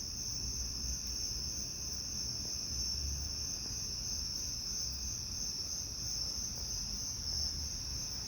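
Steady, high-pitched insect chorus, a continuous unbroken trill, over a faint low rumble.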